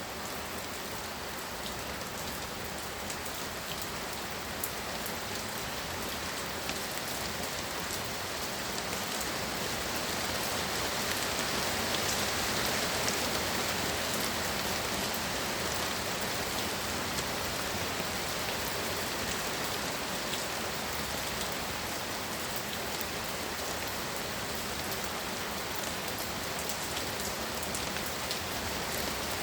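Heavy rain pouring down in a steady hiss, with scattered drops ticking on a surface; it grows a little louder around the middle.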